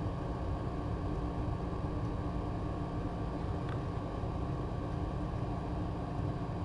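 A steady low mechanical hum with an even hiss, unchanging throughout, and one faint tick a little over halfway through.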